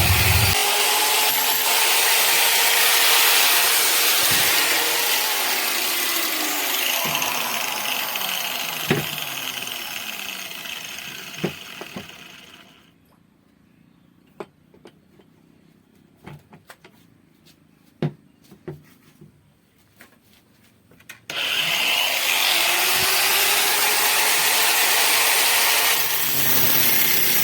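Electric drill running with wood scraping and shaving against it as a stick is rounded into a wooden peg. The noise fades out about halfway through, leaving a quiet stretch with a few scattered knocks and clicks, then the drill-and-wood noise comes back suddenly.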